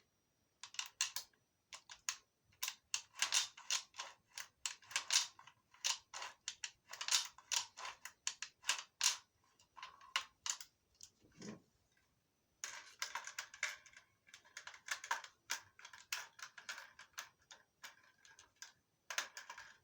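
Fingers tapping and clicking on a gun in rapid, irregular runs of sharp taps, with a short pause a little past halfway.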